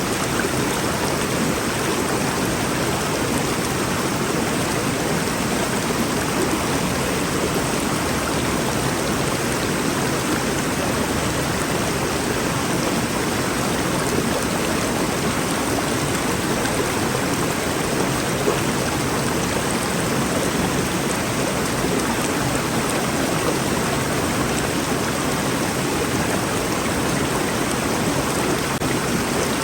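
Rainforest river rushing steadily, a dense even wash of flowing water.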